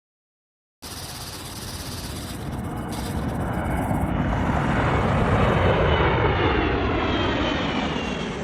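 Airbus A380 airliner's four jet engines heard as it comes in to land: the engine noise begins about a second in, swells to its loudest in the middle and then eases off, with a faint falling whine toward the end as the aircraft passes.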